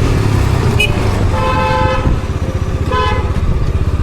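A car horn honks twice over a motorcycle engine running: a longer honk about a second and a half in, then a shorter one around the three-second mark.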